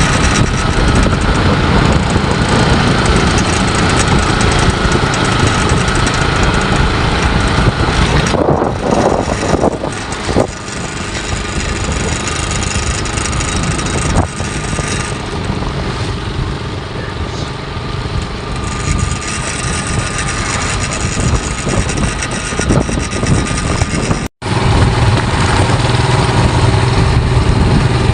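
A motor vehicle's engine running while travelling, with steady road and engine noise.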